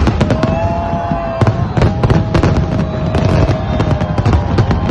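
Fireworks display going off in rapid succession: many sharp cracks and bangs over a continuous low rumble, with a long, steady whistle-like tone running through it.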